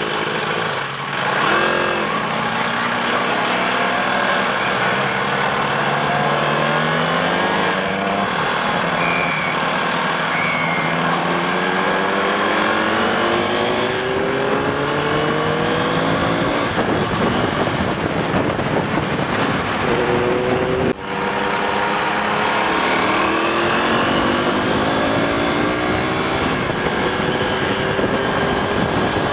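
Sport motorcycle engine accelerating hard, its pitch climbing through each gear and dropping back at the shifts, over steady wind rush.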